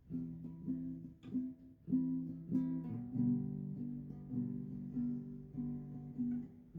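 Acoustic guitar strummed slowly, its chords improvised: each chord struck roughly every half second and left to ring, with a short lull about a second and a half in.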